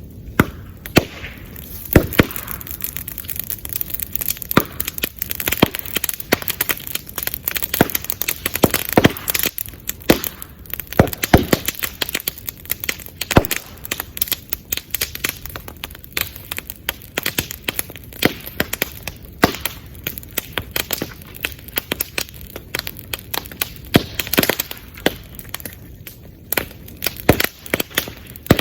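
Bamboo bonfire burning: a continuous crackle with frequent irregular sharp cracks and pops, a few of them much louder, as the hollow bamboo culms split and burst in the heat.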